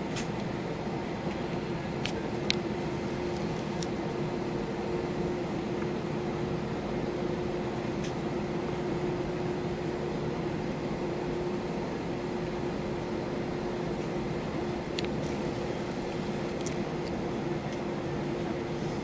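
Steady cabin drone inside an Airbus A321-231, with its IAE V2500 engines at low power and the air conditioning running. A few faint clicks and rattles sound over it, the sharpest about two and a half seconds in.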